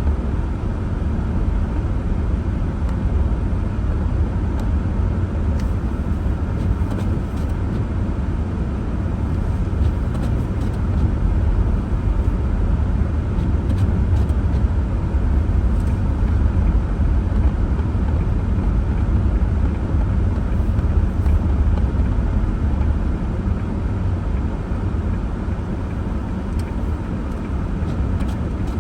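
Snowstorm wind blowing steadily and buffeting the microphone with a deep, continuous rumble.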